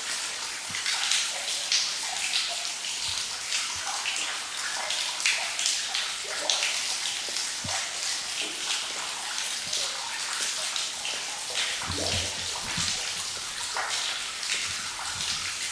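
Water dripping and trickling in a rock tunnel: a steady wash of water with many small, sharp drips, and a few low thumps about twelve seconds in.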